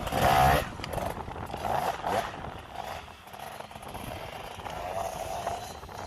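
Dirt bike engine revving, its pitch rising and falling in surges. It is loudest in the first half-second, with further surges about two seconds and five seconds in.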